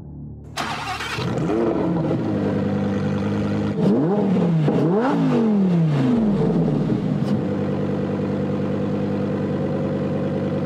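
Sports car engine starting up about half a second in, revved sharply several times so the pitch rises and falls, then settling into a steady idle.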